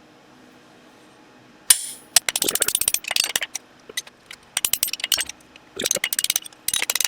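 Blacksmith's hammer on hot steel over an anvil: one loud ringing blow, then several bursts of quick light metallic taps, straightening the bar.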